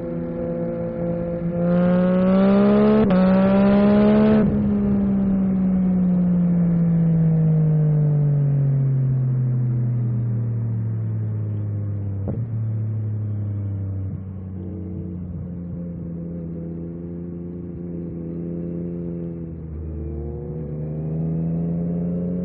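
Yamaha MT-09 SP's three-cylinder engine revving up hard about two seconds in, with a brief dip near three seconds, then falling slowly in pitch over several seconds as the bike slows. It runs steady for a while, then picks up again near the end.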